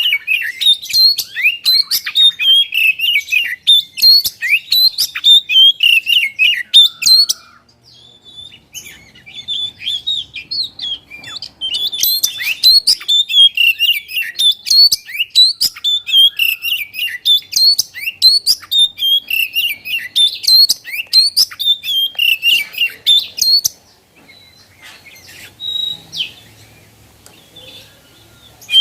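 Oriental magpie-robin (kacer) singing a fast, loud run of sharp chirps and whistled notes. The song breaks off briefly about eight seconds in and goes quiet for several seconds near the end before starting again.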